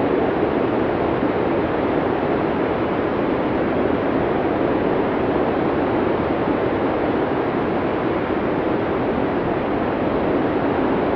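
Blizzard wind sound effect: a steady, dense rush of wind noise with no distinct gusts or breaks.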